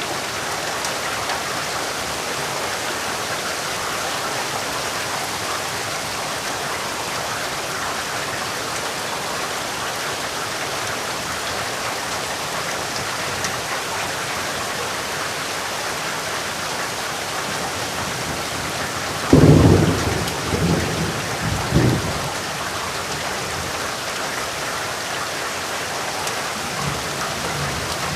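Steady heavy rainfall, with a sudden clap of thunder about two-thirds of the way through that rolls on in several rumbles for a few seconds before fading back into the rain.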